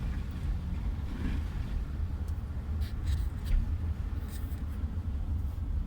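Steady low rumble of a car driving, heard from inside the cabin, with a few faint clicks in the middle.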